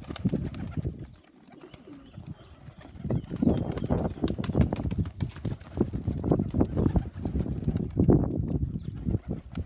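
Domestic pigeons cooing around a loft, in repeated low calls.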